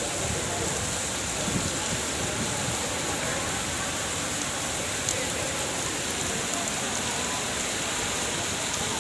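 Steady heavy rain falling and pattering on surfaces, an even continuous hiss.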